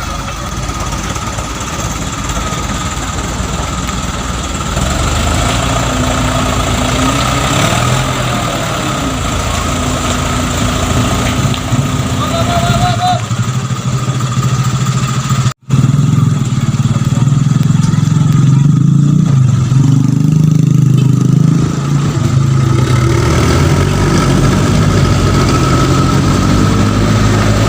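Heavy vehicle engine running steadily with a low hum. It drops out for an instant about halfway through, then comes back louder, its pitch rising and falling as it is revved.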